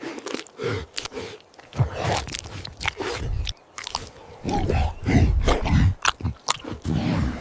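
Close-up mukbang eating sounds: repeated bites and crunchy chewing, with many sharp crisp cracks and heavier, lower mouthfuls in between.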